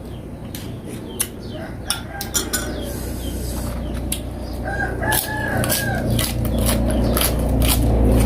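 A rooster crows once, about five seconds in, over scattered sharp clicks. A low rumble of an aircraft passing overhead builds steadily louder through the second half.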